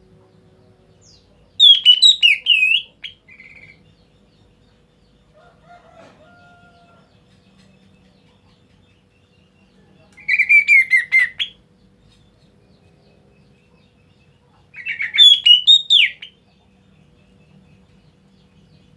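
A pet black bird calling in three loud bursts, each about a second and a half of rapid, sweeping whistled notes, about two, ten and fifteen seconds in.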